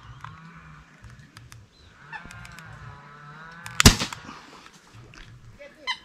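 A bird giving honking calls, with a long wavering call about two seconds in and a short one near the end. A single sharp crack near four seconds in is the loudest sound.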